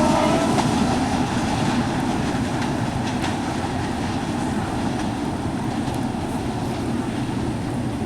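Sundarbans Express train running on the rails: a steady rumble of wheels and carriages with faint clickety-clack. A steady high whine dies away about half a second in.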